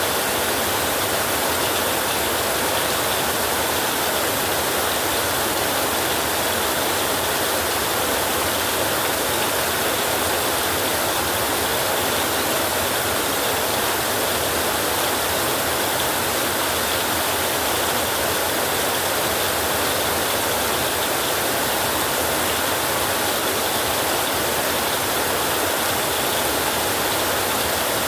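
Heavy rain falling steadily on an old roof, an even, unbroken hiss.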